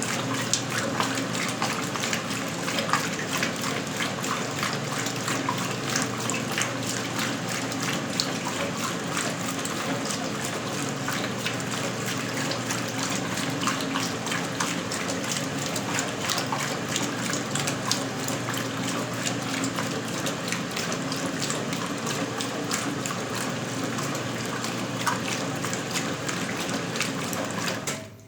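1977 Westinghouse Lavínia washing machine running with water gushing and splashing inside it over a steady motor hum. It cuts off suddenly near the end.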